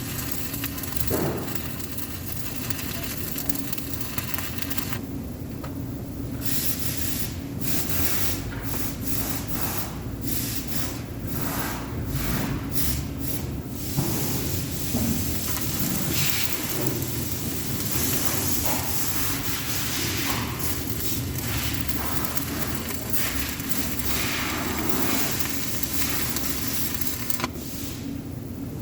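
Electric arc welding: the arc hisses and crackles steadily over a low hum, breaking off and striking again several times in short stretches partway through, then stopping briefly near the end.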